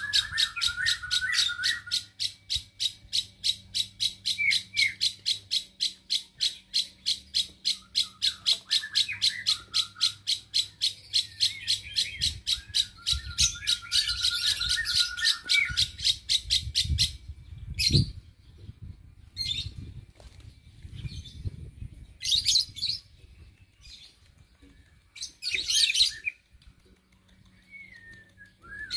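Birds calling: a shrill chirp repeated evenly about three or four times a second for roughly the first 17 seconds, over lower warbling trills. After that come scattered single calls, with two louder bursts of calls near the end.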